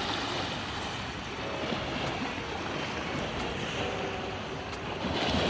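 Ocean surf washing on the shore with wind on the microphone, a steady rushing noise that swells louder near the end.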